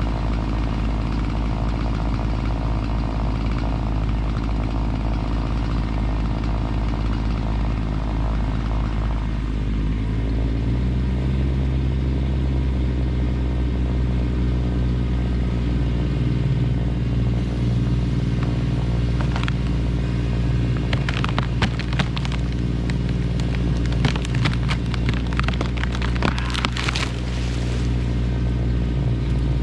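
Kubota tractor's diesel engine running steadily. About ten seconds in, its note shifts to a heavier, deeper pitch, as when it is throttled up or put under load. Between about 19 and 27 seconds a series of sharp cracks and snaps sounds over the engine.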